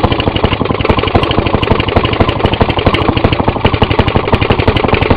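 Maytag Model 92 single-cylinder two-stroke washing-machine engine running just after a cold start, firing in a fast, even string of strokes.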